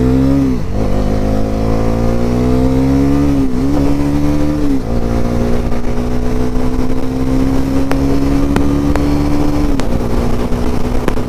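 Bajaj Pulsar NS400Z's 373 cc single-cylinder engine accelerating hard through the gears. The pitch climbs and drops at each upshift, three times in the first five seconds, then holds nearly steady at speed, dipping once more near the end.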